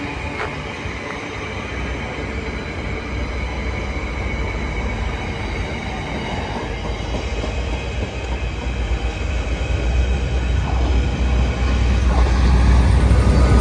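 A train running by, its low rumble growing steadily louder through the second half.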